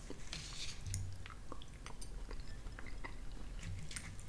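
A person chewing a mouthful of chicken pot pie close to the microphone: soft wet mouth sounds with many small clicks. Near the end a fork works into the pie crust in the bowl.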